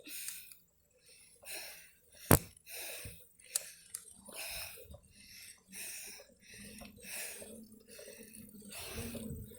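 Heavy, quick breathing of a tired cyclist close to the phone's microphone, a puff roughly every half second to second, with a sharp click about two seconds in.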